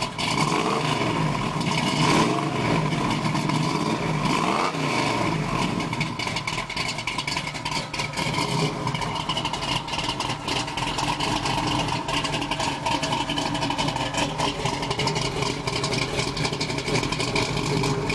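1969 Chevrolet El Camino's engine and exhaust, revved up and down a few times in the first five seconds, then running steadily.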